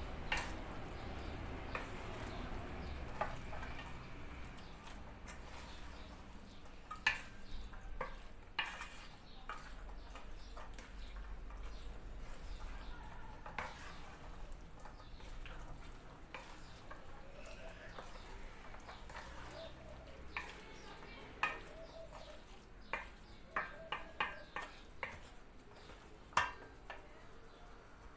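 A pot of bean stew with tomato paste sizzling on the stove as it is stirred: a steady frying hiss with occasional clinks and knocks of the spoon against the pot, coming closer together near the end.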